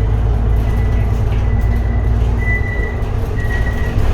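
Cabin noise of an Edison Motors Smart 110G city bus under way, its GX12P CNG engine and ZF six-speed automatic giving a steady low rumble. A thin high tone comes and goes over it in the second half.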